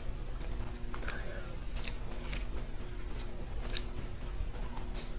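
Close-miked chewing of macarons, with irregular crisp clicks and crackles from the meringue shell, about one a second. A steady low hum runs underneath.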